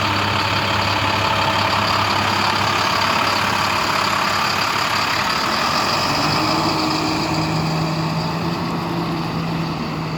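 Truck engine running steadily close by, its engine note shifting a little higher about six seconds in.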